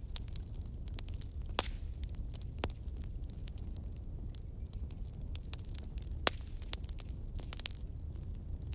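Wood campfire burning: irregular sharp crackles and pops of the burning wood over a steady low rumble of the flames.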